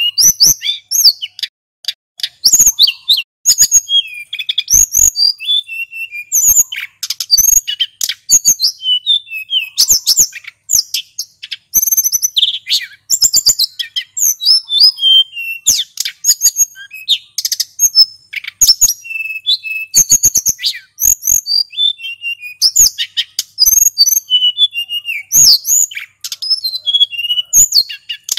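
Male sulingan gunung songbird singing continuously: a fast, varied string of high chirps, whistles and short trills with many sharp clicking notes.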